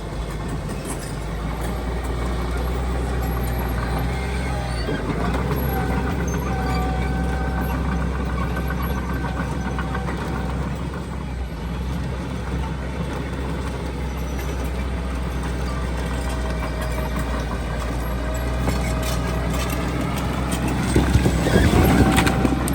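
Diesel engine of a heavy earthmoving machine running steadily, with a low hum and a higher whine over it. Near the end it revs up, louder and rising in pitch.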